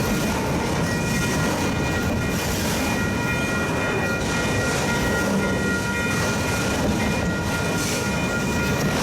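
A train running: a steady rumbling noise with a thin, high, steady whine above it.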